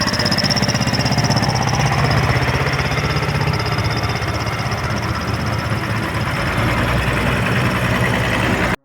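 Zetor 12011 tractor's diesel engine running with a fast, even pulse and a steady high whistle above it. It cuts off suddenly near the end.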